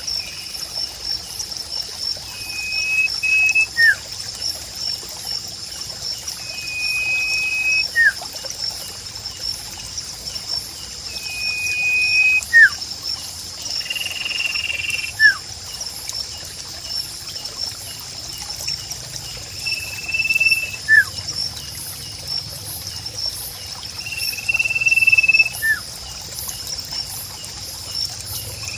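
Nature ambience: trickling water under a steady high insect trill, with a short flat call repeated about every four seconds and brief sliding chirps in between.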